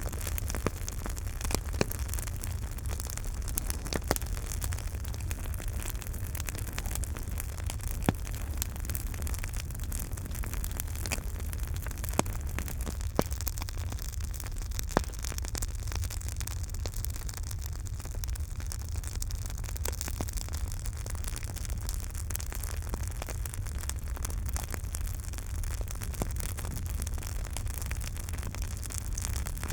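Campfire burning, with a steady low rumble under frequent small crackles and a few sharper pops.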